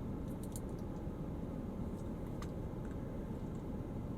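Steady low rumble of a car cabin, with a few faint clicks and taps from a lip gloss tube being handled.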